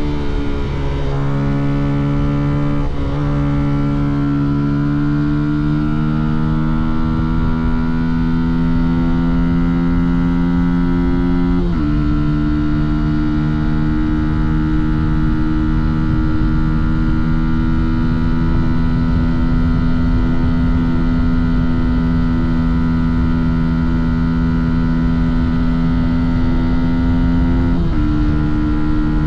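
Fantic Caballero 125's single-cylinder four-stroke engine under way, its revs climbing slowly in gear, dropping sharply at an upshift about twelve seconds in, then holding fairly steady before dropping again at another shift near the end. A low rumble of wind and road noise runs underneath.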